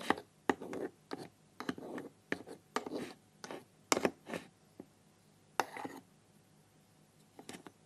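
Toy kitchen pieces being handled: a quick, irregular run of taps, clicks and short scrapes for about six seconds, then a pause with a couple of light taps near the end.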